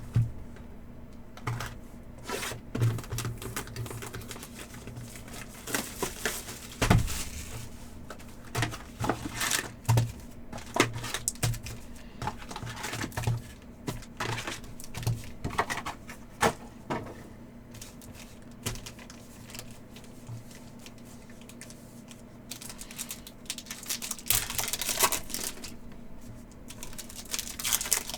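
Hockey card packs being torn open and the cards handled and flicked through: irregular clicks, crinkling and tearing over a steady low hum.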